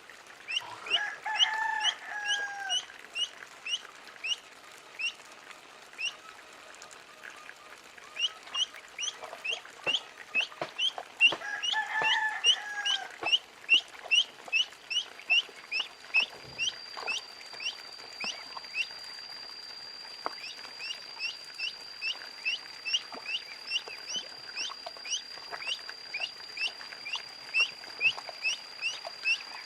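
Ducklings peeping: a rapid run of short, high, falling chirps, several a second. A longer, lower call comes twice, near the start and about twelve seconds in, and a faint steady high whine sets in past the middle.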